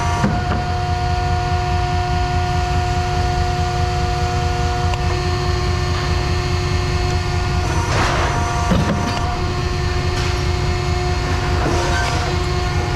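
Heavy machinery running steadily, with a deep rumble and a constant whine. A few short clanks or scrapes come about eight seconds in and again near the end.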